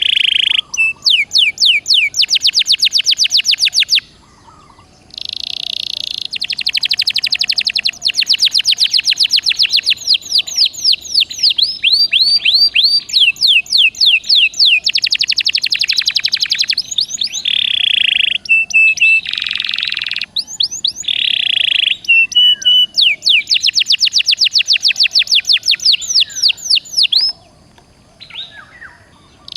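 Domestic canary in full song: long, loud phrases of fast rolling trills mixed with buzzy notes, broken by a short pause about four seconds in and another near the end.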